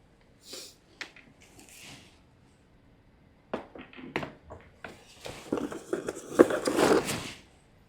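Handling noises from an LED shop light being picked up and moved about: a scatter of clicks, knocks and rustles, sparse at first and busier in the second half, with one sharper knock.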